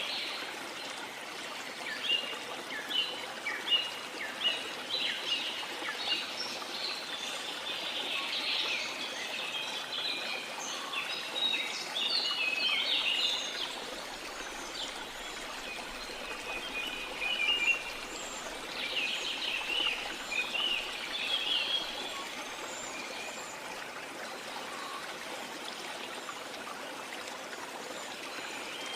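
Small songbirds chirping and twittering in quick, dense bursts over a steady wash of water; the chirping thins out over the last third.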